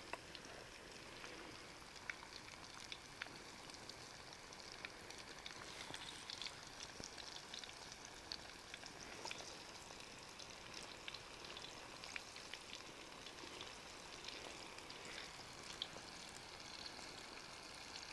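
Chicken pieces deep-frying in hot oil in a wok: a steady sizzle with many small scattered pops and crackles.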